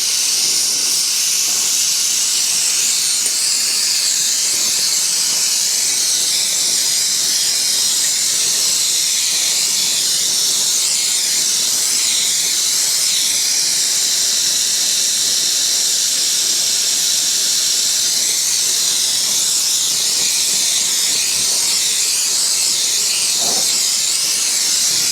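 Handheld gas torch burning with a steady hiss, heating the cylinder to free a seized head stud.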